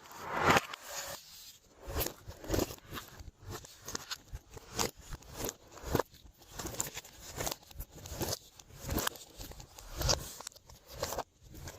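Hands working a glossy slime, kneading, stretching and mixing it, giving irregular sticky squishing noises a few times a second.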